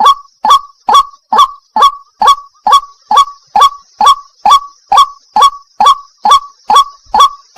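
White-breasted waterhen ('wak wak') calling over and over, a fast, even series of short, loud, upward-sweeping notes at about two per second. A faint steady high hiss runs behind the calls.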